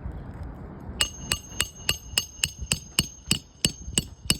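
Hand hammer driving a roofing nail into an asphalt shingle. Quick, even strikes, about three a second, each with a bright metallic ring, starting about a second in.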